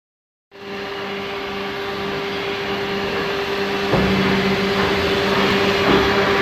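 Cylinder honing machine running on an engine block: a steady machine hum with a held low tone that starts about half a second in, grows louder and steps up at about four seconds.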